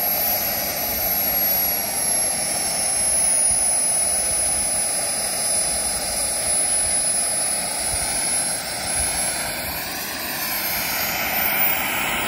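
Radio-controlled model jet's turbine engine running with a steady rushing sound and a thin high whine. The whine sags slowly in pitch, then climbs again near the end.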